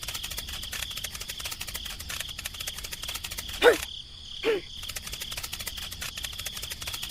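Insects chirping: rapid, even clicking with a steady high buzz. Two short swooping chirps come about halfway through.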